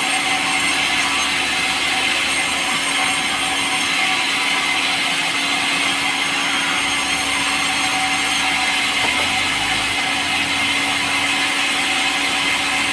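A power saw running steadily as it cuts through pulai wood, a light, soft timber.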